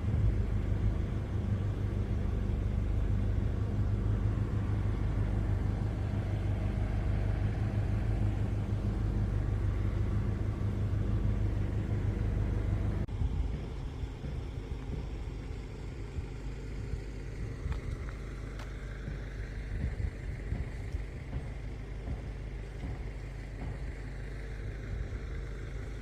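Car driving: steady low engine and road rumble. About halfway through it drops abruptly and carries on quieter, with a faint whine that slowly rises and then falls in pitch.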